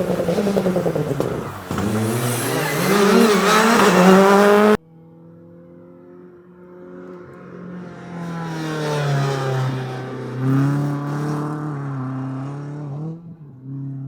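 Rally car engines at full throttle: one car revs up, drops briefly at a gear change and climbs again, then cuts off abruptly about five seconds in. A second rally car follows, accelerating past with its engine note rising and falling, and fades away near the end.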